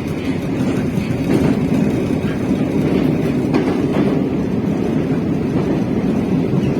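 Metro train running between stations, heard from inside the carriage: a steady rumble of the wheels on the rails, with a few faint clicks in the middle.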